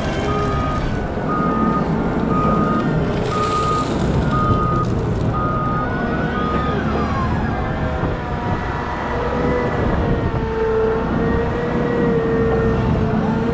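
Heavy wheel loader running, its reversing alarm beeping about once a second over a steady diesel engine drone. The beeping stops about seven seconds in, and a steady whine from the drivetrain then rises a little and holds.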